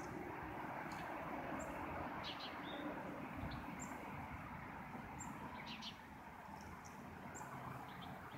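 Small birds chirping, with short high calls coming every second or so, over a steady low background rumble.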